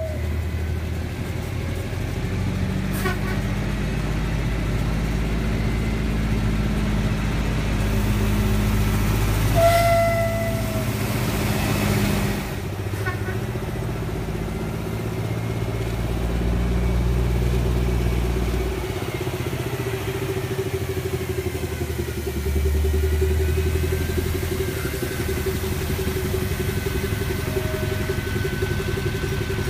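A narrow-gauge train running with a steady low rumble, giving one short whistle toot about ten seconds in, with a couple of sharp clanks.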